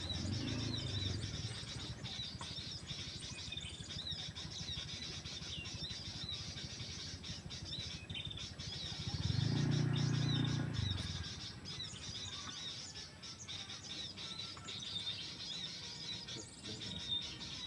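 Small birds calling with repeated short, high chirps, and a low rumble that swells and fades about nine seconds in.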